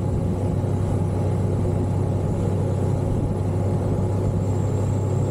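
Motorcycle engine running steadily at an even low pitch, without revving.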